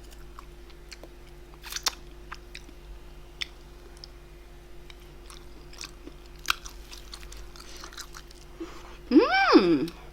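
Close-up chewing and biting of grilled bulgogi: scattered moist clicks and crunches over a steady low hum. Near the end, a brief pitched sound slides up and then down, louder than the chewing.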